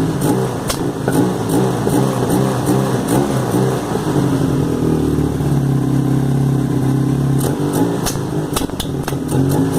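Carbureted Honda CBR motorcycle engine running unevenly, with sharp spits and coughs. It is held at a steadier, slightly higher speed from about four seconds in, then falls back near the end with more spitting. These are the carb spit and reversion that the owner puts down to unsynchronized carburetors, valves or an air leak in the intake manifold.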